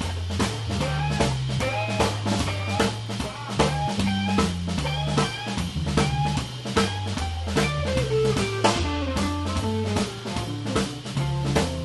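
Jazz organ trio playing an up-tempo tune: electric guitar lines over an organ bass line and a drum kit with ride cymbal, with a run of notes stepping down about eight seconds in.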